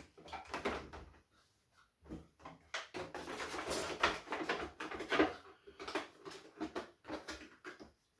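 Plastic toy packaging being handled and pushed back into its box: irregular crinkling and clicking of stiff clear plastic, busiest in the middle.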